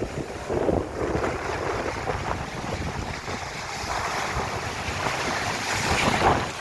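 Small ocean waves washing up onto the shore as a continuous rush. A wave swells to its loudest about six seconds in, then falls away.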